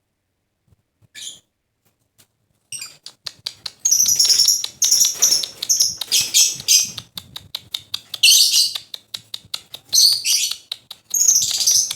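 Lovebird calling: after a quiet start with one short chirp about a second in, shrill high-pitched chirps come in repeated bursts over a fast run of clicks.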